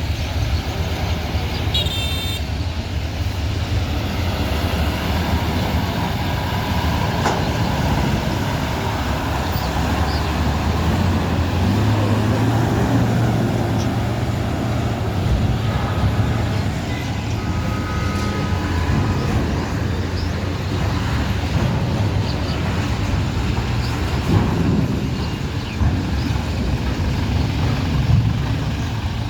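Heavy trucks and buses running, a steady low engine rumble with traffic noise. A brief high tone sounds about two seconds in.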